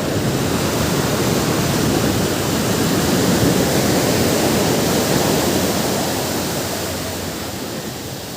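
Ocean surf: a wave breaking and washing up the shore as a loud rush that swells, peaks about three to five seconds in, then slowly fades as it runs back.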